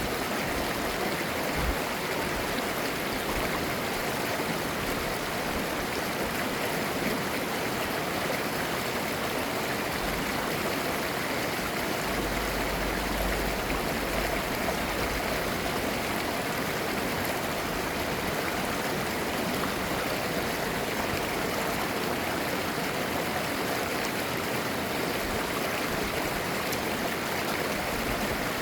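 Clear mountain stream flowing over rocks: a steady babbling, gurgling rush of water.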